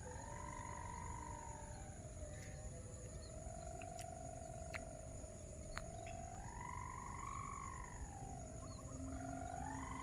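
Mini kite hummer droning in the wind: one steady, shrill tone that slowly sags and swells, rising higher about two-thirds of the way through and again at the end. A low wind rumble on the microphone lies under it.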